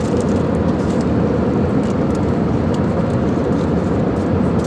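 Airliner cabin noise in flight: a steady, even drone of engines and airflow.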